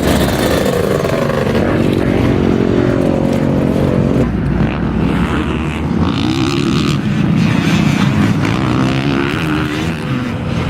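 Motocross dirt bike engine running and revving, its pitch rising and falling with the throttle.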